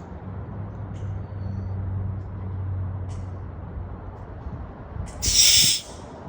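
A steady low hum for the first few seconds, then a short, loud hiss about five seconds in: air let out of a compression tester's gauge after a cylinder reading on a 5.0 V8.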